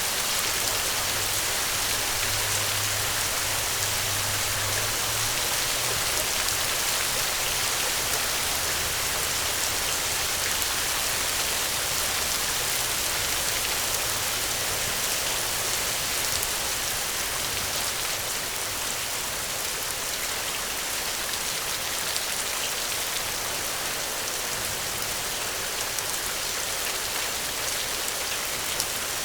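Steady rain falling, an even hiss with a fine patter of drops on surfaces. A faint low hum sits underneath for the first few seconds.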